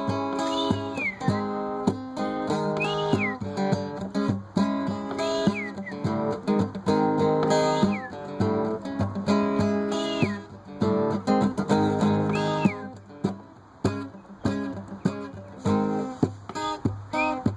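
Instrumental acoustic guitar music, plucked and strummed. A high, whistle-like glide rises and falls over it about every two and a half seconds.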